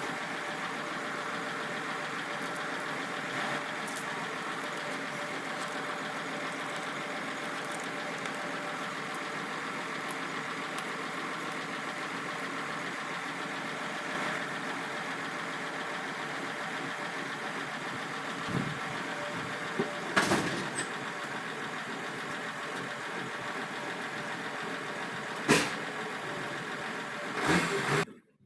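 Kubota M6040 tractor's diesel engine idling steadily, with a few short sharp knocks in the second half. The sound cuts off suddenly near the end.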